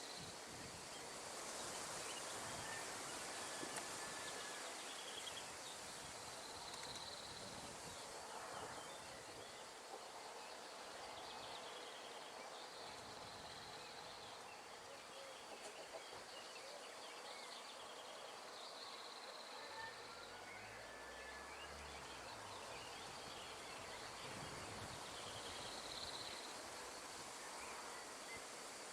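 Outdoor nature ambience: a soft, steady rush of wind through trees, with faint high insect buzzes every few seconds and a few scattered bird chirps.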